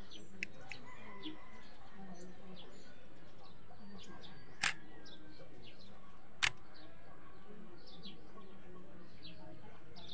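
Small birds chirping, many short high chirps scattered over a steady background hiss, with two sharp clicks a couple of seconds apart near the middle.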